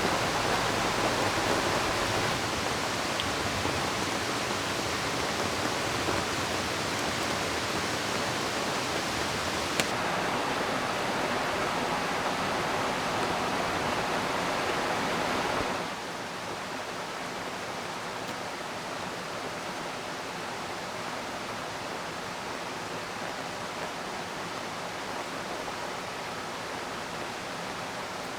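Steady rushing of river water. About halfway through it drops to a quieter, duller wash, and there is a single faint click near the middle.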